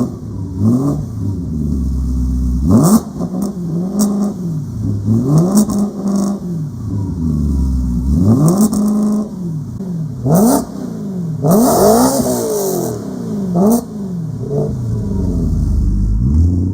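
Supercharged BMW E92 M3 V8 through an aftermarket AME exhaust, revved about ten times in quick blips, each rising and falling in pitch within a second or so, with one longer, higher rev about twelve seconds in.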